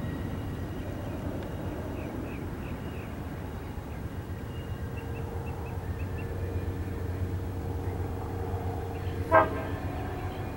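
Low rumble of a train approaching out of sight, with a faint steady horn-like note through the second half and birds chirping. About nine seconds in, a brief sharp sound stands out as the loudest thing.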